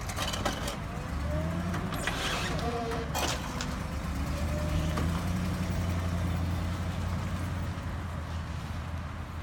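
Tow truck's engine running steadily, a low hum that grows louder about a second in, with a few brief clicks and knocks over the first few seconds.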